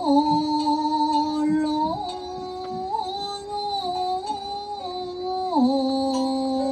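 Slow singing in long held notes, the pitch stepping up about two seconds in and dropping back near the end.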